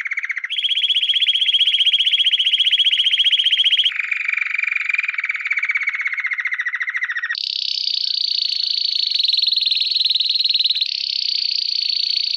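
Lovebird's long 'ngekek' song: one unbroken, very fast rattling trill that jumps abruptly to a new pitch three times, dipping slightly in the middle and highest in the second half.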